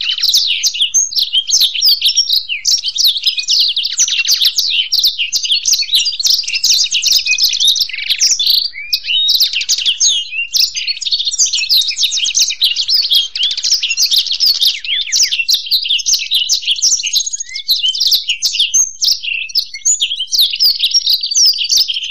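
Black-throated canary (blackthroat) and European goldfinch singing together: high, rapid twittering and trills with no pause.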